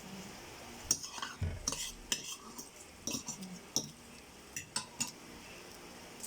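Eating utensil clinking and scraping against a bowl of noodles: a scatter of short, light clicks.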